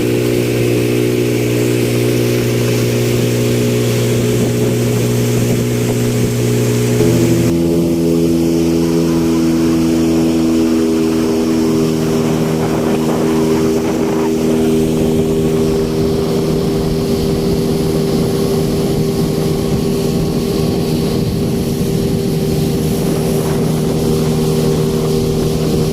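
Motorboat's outboard engine running at a steady speed under way, with water noise. The engine note shifts abruptly about seven seconds in.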